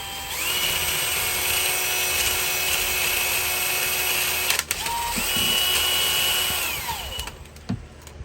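Electric drill running on high with a soft brass bristle brush scrubbing old head-gasket material off an engine's cylinder head. It runs twice, each time winding up and then down, with a short break about four and a half seconds in.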